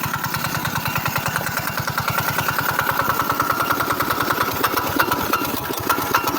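maXpeedingrods 212cc four-stroke OHV single-cylinder small engine running with a fast, even firing beat that turns louder and more uneven in the second half. The owner hears a knocking noise in it.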